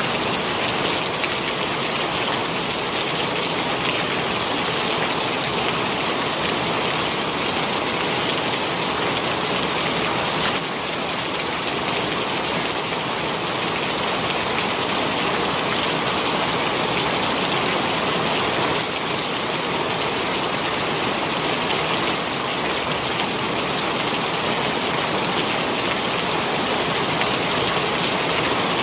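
Heavy rain pouring down steadily: a dense, even hiss of rainfall with no let-up.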